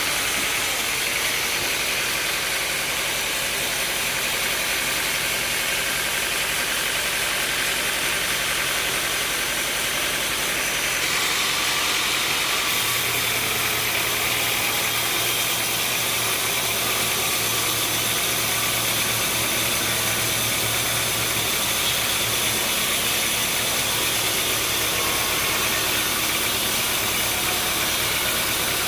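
Sawmill machinery running steadily, an engine-like drone with a strong hiss, its tone shifting about twelve seconds in.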